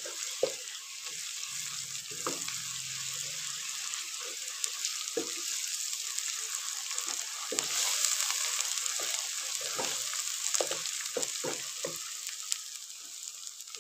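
Onions and ginger-garlic paste sizzling in hot ghee in a pot, with a steady hiss, while a wooden spatula stirs and scrapes against the pan with frequent short knocks.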